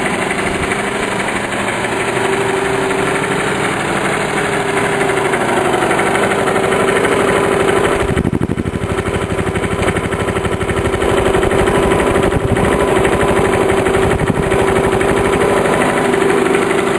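Briggs & Stratton lawn mower engine running steadily through a scooter muffler fitted as a custom exhaust. Its note wavers briefly about halfway through.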